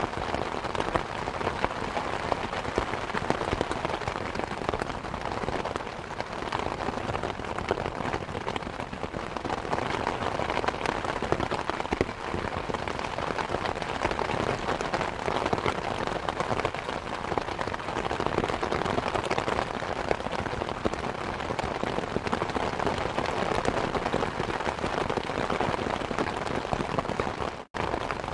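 Steady rain mixed with the crackling and popping of a wood fire in a fireplace. The sound cuts out for an instant near the end.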